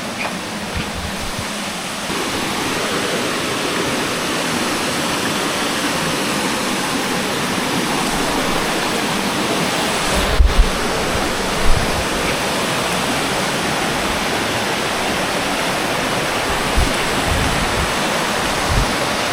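Steady rushing of falling water, a continuous even hiss that grows a little louder about two seconds in. There are a few dull thumps about ten and twelve seconds in.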